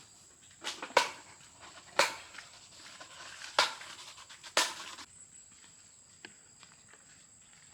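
Five sharp knocks in the first five seconds, two close together near the start and the rest about a second apart, over a faint steady high-pitched tone.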